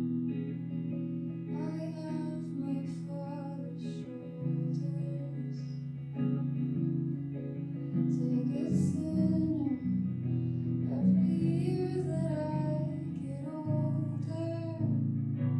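Live solo song: a guitar accompaniment with a voice singing a slow melody over it.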